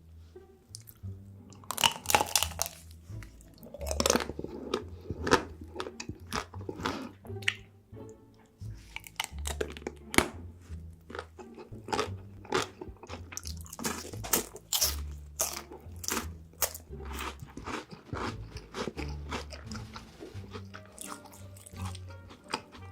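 Close-miked crunching and chewing of chocolate, with loud bites in quick runs, over background music with a stepping bass line.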